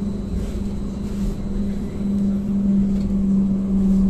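Ankeng Light Rail tram running between stops, heard from inside the car: a steady hum over a low rumble, getting louder about two seconds in.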